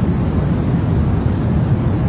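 Continuous sleep-aid noise for babies: an even, unchanging rush, deep and heavier in the bass than a plain hiss.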